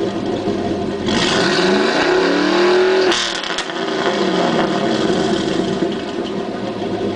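2005 Chevrolet Silverado SS's 6.0-litre V8 through high-flow cats and a Corsa Sport exhaust, idling, then revved once: the pitch climbs for about two seconds, cuts off sharply about three seconds in and falls back to idle.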